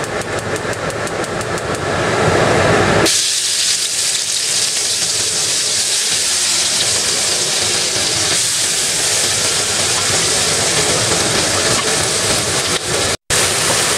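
Green chili paste frying in hot oil in a wok: about three seconds in, a loud, steady sizzling hiss starts. A different, rhythmic noise comes before it, and the sound cuts out for a moment near the end.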